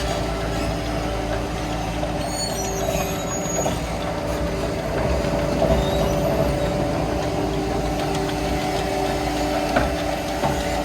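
BOMAG BF 350 C-5 asphalt paver's diesel engine running steadily, with a brief high squeal about two to four seconds in.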